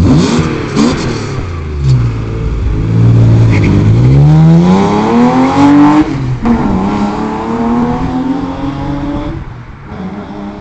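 BMW E36 M3 inline-six with Supersprint longtube headers, trackpipe and Magnaflow exhaust, accelerating hard. The engine comes in loud, its pitch climbs through the revs, drops at a gear change about two-thirds of the way through, climbs again, and then fades as the car pulls away.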